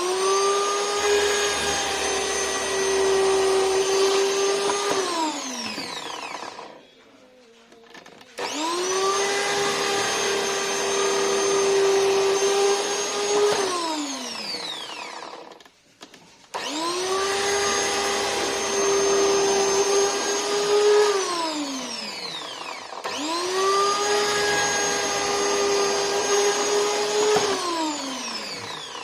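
An electric motor is switched on and off four times. Each time it comes up to speed almost at once, runs with a steady high whine for about five seconds, then winds down with the pitch falling.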